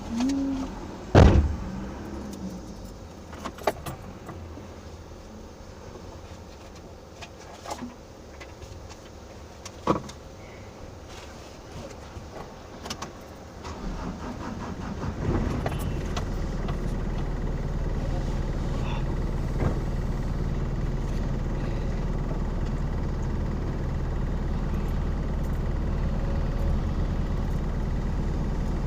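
A heavy thud like a car door shutting about a second in, then scattered small clicks and key-like jingles. About halfway through, a steady low engine hum comes on and keeps running, like a car engine idling.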